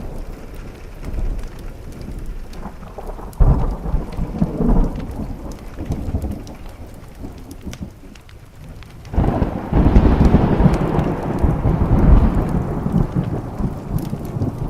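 Thunderstorm: steady rain with two rolls of thunder, a short rumble about three and a half seconds in and a longer, louder one starting about nine seconds in and fading toward the end.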